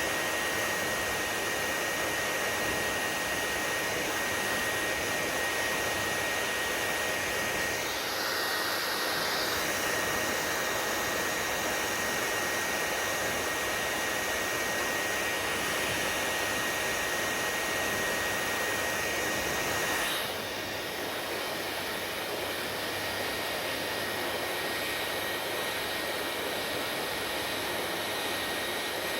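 Hair dryer running: a steady rush of blowing air with a thin, high, steady whine. About twenty seconds in the whine stops and the sound drops slightly in level.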